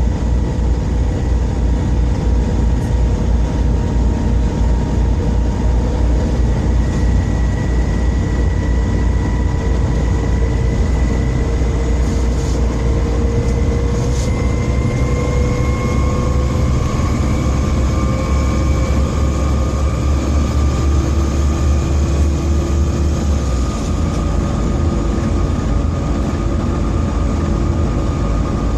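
Volvo B7TL double-decker bus's six-cylinder diesel and driveline running under way, heard on board. A heavy low rumble and rattle, the bad engine vibrations, run under a whine that rises slowly as the bus gathers speed. The low rumble eases about five seconds before the end.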